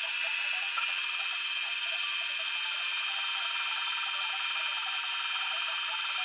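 Small electric power tool running steadily, a high motor whine with faint irregular chatter as it works the metal.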